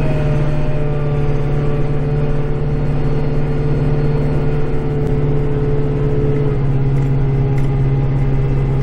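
Kubota tractor's diesel engine running steadily, heard from inside the cab, its pitch dipping slightly about two-thirds of the way through.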